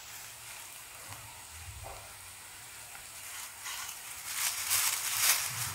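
Chopped onion, peanuts and green chillies sizzling in hot oil in a kadhai, the onion frying until reddish. The sizzling grows louder and more uneven over the last two seconds or so.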